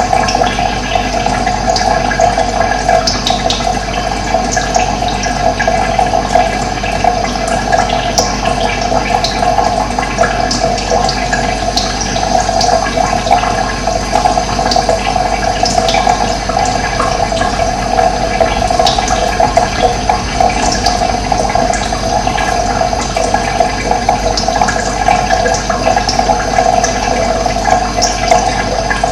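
Steady running water, a continuous rushing flow, with many short bird chirps scattered over it.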